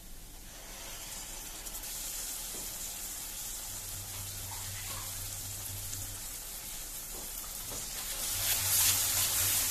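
Tomato purée sizzling in hot oil and fried spices in a steel kadhai, a steady hiss that begins about a second in. Near the end it grows louder as a silicone spatula stirs the purée through the masala.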